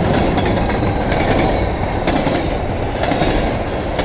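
CN freight train rolling past, with a steady rumble of wheels on the rail and faint clicks from the rail joints.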